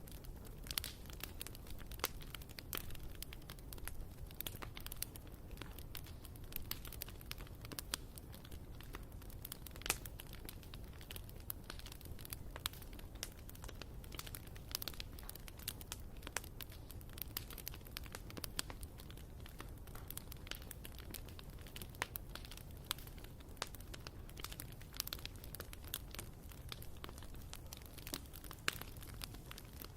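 Bonfire burning, with many sharp, irregular crackles and pops from the burning wood over a steady low rumble of the flames.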